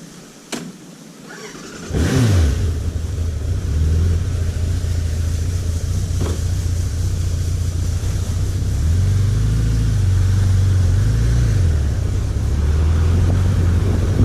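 A motorcycle engine starts up about two seconds in, its revs dropping quickly after it catches. It then runs steadily, with the revs rising and falling once about two-thirds of the way through.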